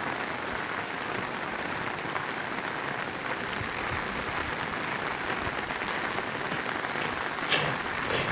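Heavy rain falling steadily, a constant even hiss, with two short sharp clicks near the end.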